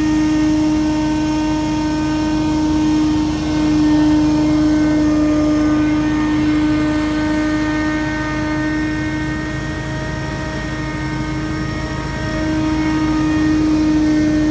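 Scag Windstorm stand-on leaf blower running steadily: a held, humming whine from the engine and fan over a rush of air.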